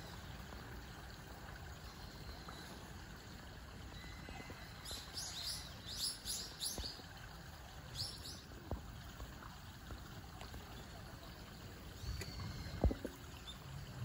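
Quick, high bird chirps, six or seven in a row about five seconds in and two more a second or so later, over a steady low outdoor rumble. A single low thump near the end.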